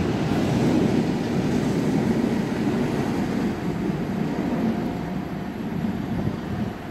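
Low, steady rumble of a train moving through the station, easing off slowly in the second half.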